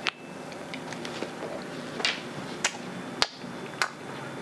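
Close-up chewing of a chocolate-coated nougat and coconut candy bar: a bite right at the start, then wet mouth clicks, a handful of sharp ones about every half second in the second half.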